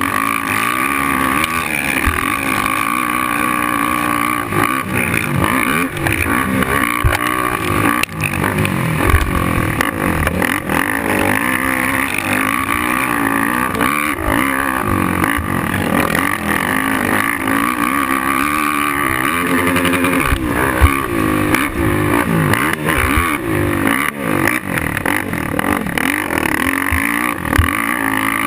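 Suzuki LT-R450 quad's single-cylinder four-stroke engine revving up and falling back again and again as it is ridden hard, with a few sharp knocks along the way.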